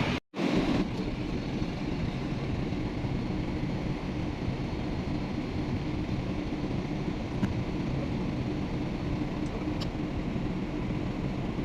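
A rescue boat's engine running with a steady, even drone. The sound drops out for a moment right at the start, then carries on unchanged.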